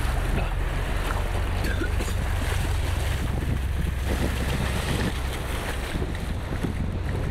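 Ocean surf washing in the shallows, with wind buffeting the microphone as a steady low rumble.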